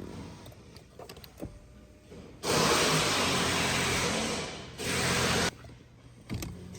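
2016 Lincoln MKZ front power seat motor running in two runs: a steady motor noise of about two seconds, a brief dip, then under a second more that cuts off suddenly, after a few switch clicks.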